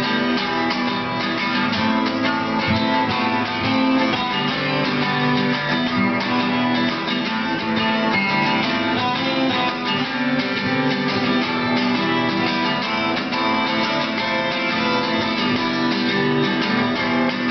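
Two acoustic guitars playing an instrumental passage, steadily strummed with picked notes ringing over the chords.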